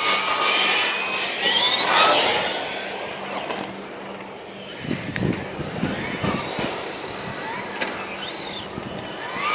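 Radio-controlled cars' motors whining, several at once, rising and falling in pitch as the cars speed up and slow down. The whine is strongest in the first few seconds and eases off after that, with a few low knocks around the middle.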